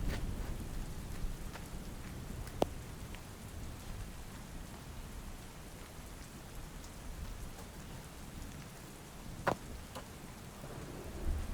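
Steady heavy rain falling, with a low thunder rumble at the start that rolls in again near the end. Two sharp drops smack down, one a few seconds in and one near the end.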